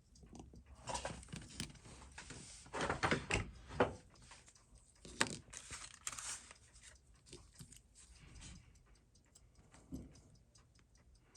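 Bench work on a watch movement: bursts of rustling and scraping with small clicks and taps, the loudest in the first half.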